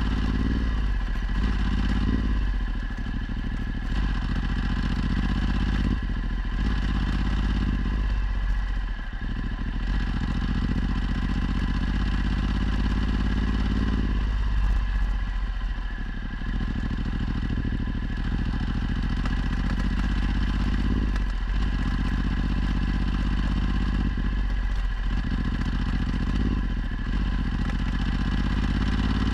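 Ducati Multistrada 1260's V-twin engine through a Termignoni exhaust, running under way. The engine note dips and picks up again several times as the throttle is rolled off and on.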